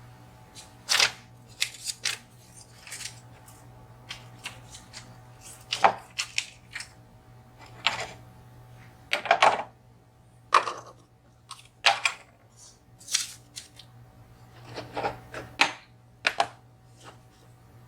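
Irregular sharp clicks, taps and short rattles of small hard objects being handled, about fifteen spread unevenly with pauses, over a faint steady hum.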